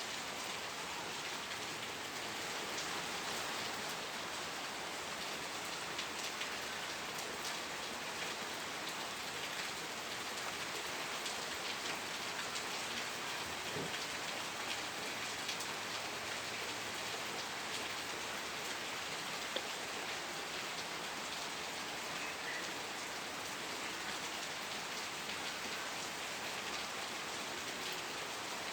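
Steady rain falling, a dense even hiss with many individual drops pattering, and one slightly louder drop or tick about two-thirds of the way through.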